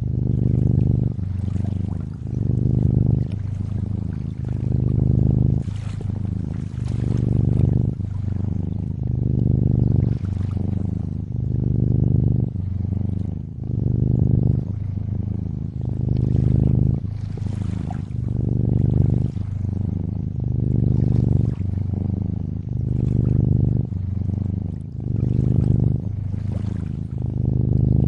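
Cat purring, swelling and easing about once a second with each breath in and out, over gentle water sounds.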